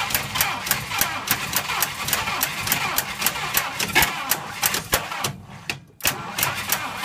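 Packard inline engine being cranked to start it, with the carburettor throat covered by hand to choke it, beating in a regular pulse of about four strokes a second. Near the end the beat fades and stops for under a second, then starts again.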